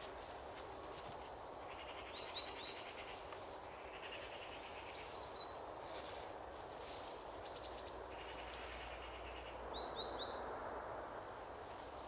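Small birds calling: short, high, downward chirps in quick runs of about three, around two, five and ten seconds in, with a few fainter high calls between. Behind them is a steady outdoor background hiss.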